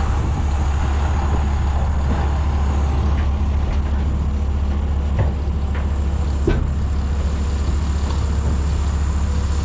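A large vehicle engine running steadily in a low drone, with a couple of brief knocks about five and six and a half seconds in.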